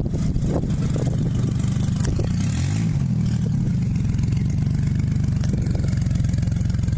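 Truck engine running steadily, with a brief rise and fall in revs about two and a half seconds in.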